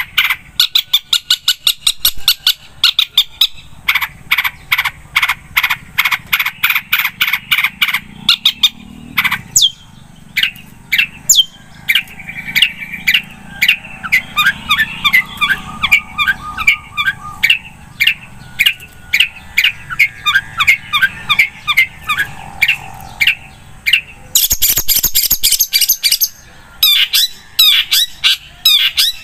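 Long-tailed shrike (cendet) singing: fast runs of short, sharp repeated notes, then a more varied warbling stretch, with a brief high, scratchy burst near the end.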